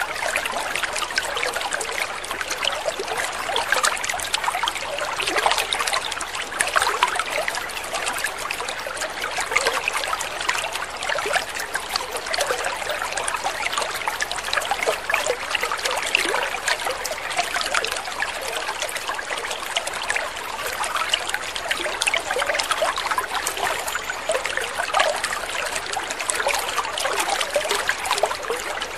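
Water trickling and splashing steadily, a continuous fine babble.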